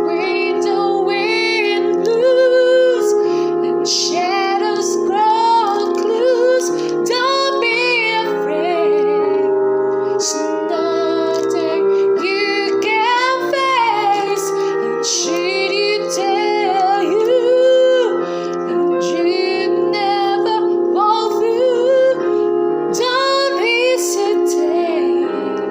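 A song with a woman singing a melody that bends and glides, over sustained piano or keyboard chords.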